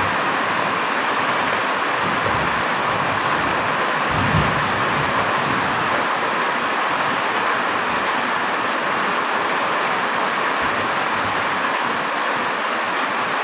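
Heavy rain falling steadily as an even hiss, with a brief low rumble about four seconds in.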